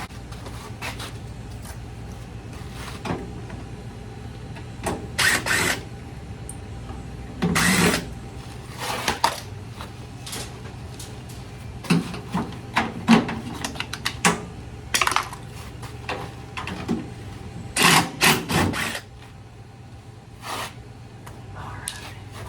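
Irregular clicks, knocks and short scrapes of hands and tools working on a front-load washing machine's cabinet and panels, over a steady low hum.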